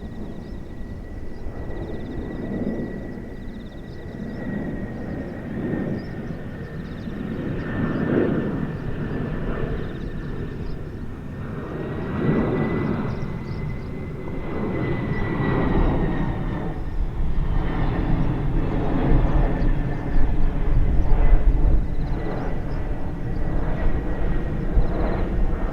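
A Boeing 767 jet airliner flying over, its turbofan engines giving a steady high whine over a low rumble. The rumble grows louder toward the end.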